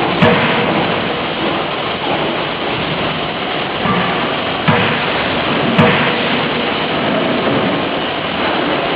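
A 50 kJ closed-die forging hammer striking a few sharp blows over a loud, steady roar of forge-shop machinery: one blow just after the start, then two close together past the middle.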